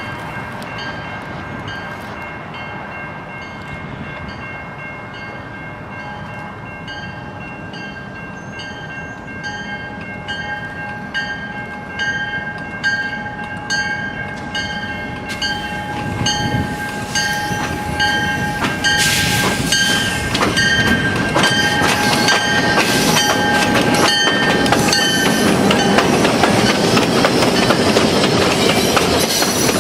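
Freight train approaching and passing. A ringing bell repeats about once a second over a steady tone, and the train's rumble and wheel clatter grow steadily louder through the second half.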